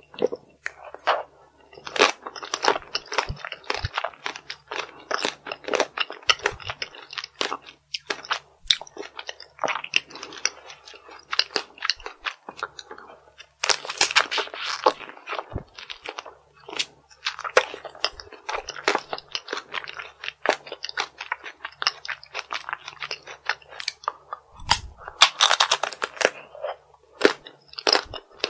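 Close-miked crunching and chewing of chocolate strawberry tanghulu: the hard shell cracks between the teeth in rapid, irregular crackles, with louder bites about halfway through and again near the end.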